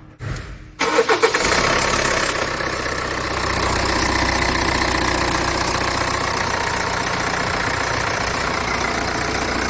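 Kia Sorento engine starting just under a second in, catching after a brief crank and settling into a steady idle: a start-up check after its crankshaft position sensor was replaced.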